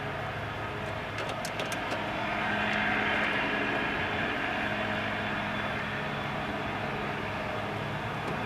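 Steady vehicle drone that swells about three seconds in and slowly eases, with a few light clicks a little over a second in.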